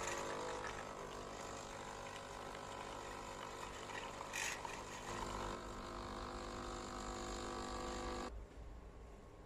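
HiBREW H1B capsule coffee machine's pump humming steadily as it forces water through a Dolce Gusto milk capsule during milk extraction, with liquid hissing. There is a brief louder hiss about four and a half seconds in, and the pump stops shortly before the end.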